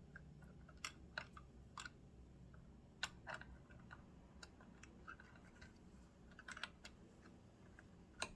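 Faint, irregular small clicks and light scrapes of metal parts as a sewing machine's zigzag cam gear is eased into place past the needle bar arm, with quiet room tone between them.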